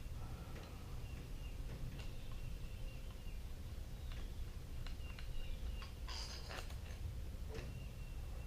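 Scattered small clicks and a brief rattle about six seconds in, as parts of a small-engine electric starter are handled during reassembly, over a steady low background hum.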